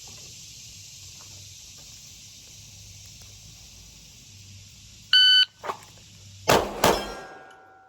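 Shot-timer beep, then about 1.4 seconds later a drawn handgun fires twice in quick succession, the shots about a third of a second apart. A ringing tone fades out after the shots.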